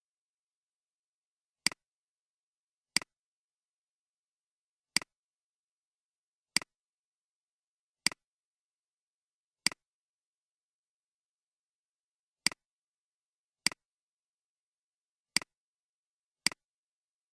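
Computer mouse clicking: ten single sharp clicks at uneven intervals, about one every one to three seconds, with nothing heard between them.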